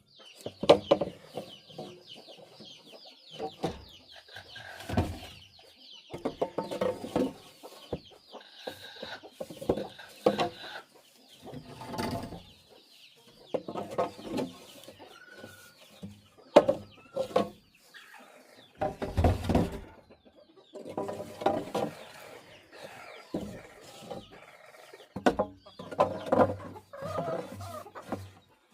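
Chickens clucking on and off, in many short irregular calls, with a few sharp knocks among them.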